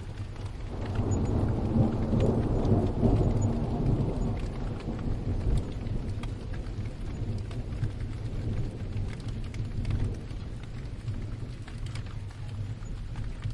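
A low roll of thunder swells about a second in, then slowly dies away over steady rain with scattered drop ticks.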